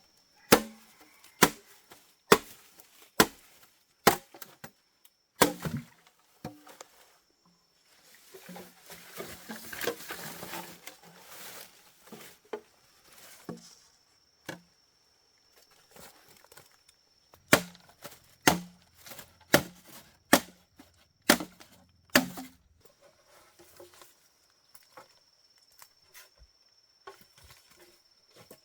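Sharp chopping strikes of a blade into wood, about one a second, in two runs, with a stretch of rustling in between.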